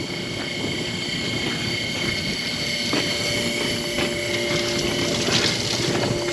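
A steady mechanical drone with several held tones, like a distant engine or motor running; a second tone joins about halfway through.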